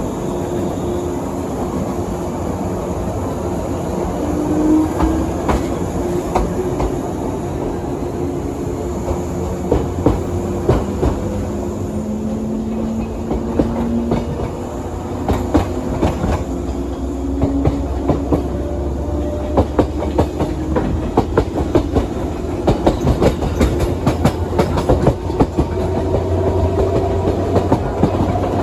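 JR West 117 series electric train running, heard from inside the car: a steady low rumble with motor and gear hum that rises in pitch in places. The wheels click over rail joints, and the clicks come more and more often in the second half.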